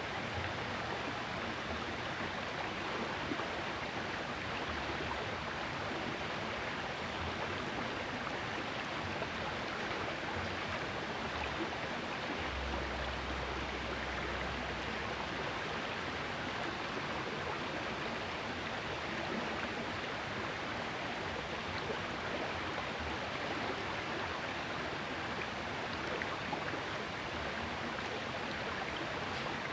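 Steady rush of a small river's flowing water, with a brief low rumble about halfway through.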